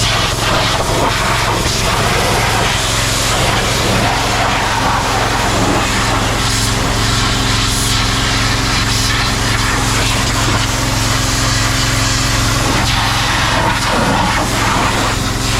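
High-pressure sprayer at work: a steady engine note with the hiss of the water jet over it.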